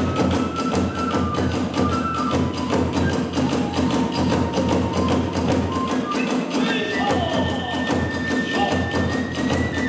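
Kagura hayashi played at a fast, driving tempo: drums and hand cymbals beating a dense, even rhythm, with a bamboo flute holding long notes that step up to a higher pitch about seven seconds in.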